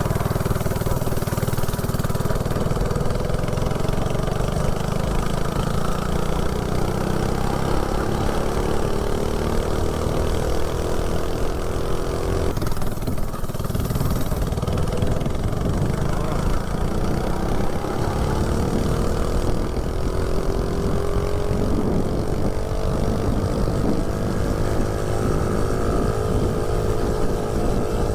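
79cc LCT snowblower engine on a Coleman CC100X mini bike, run with J-B Weld in place of its head gasket, pulling steadily under load through a header pipe while the bike is ridden. Its pitch climbs slowly, dips briefly about halfway in, then climbs again.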